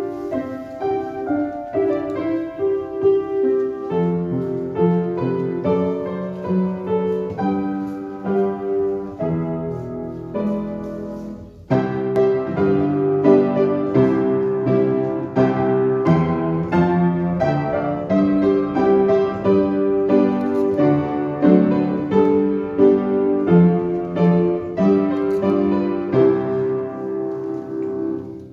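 Instrumental piano music, a steady stream of notes with a brief break just under twelve seconds in.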